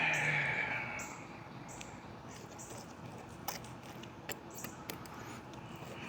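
Faint scattered clicks and taps of someone eating: a fork and knife against a plate as a chicken breast is cut and tasted.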